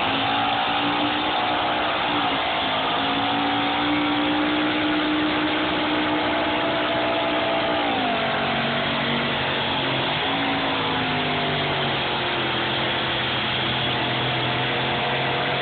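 Small-block Chevy V8 in a John Deere hot-rod pulling tractor running at full throttle under load during a tractor pull. Its engine speed holds high, then drops about halfway through and dips again shortly after, running lower to the end.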